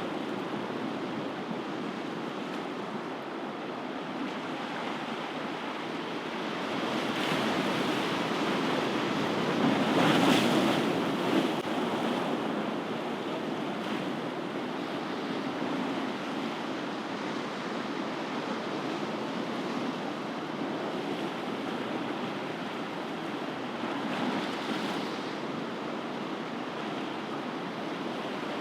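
Ocean surf washing steadily, with a wave breaking louder about ten seconds in and a smaller one near the end.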